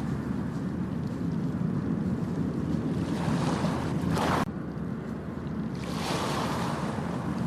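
Ocean waves washing onto a beach over a steady low rumble of surf. One wave's hiss builds to about four seconds in and cuts off suddenly, and another washes in near the end.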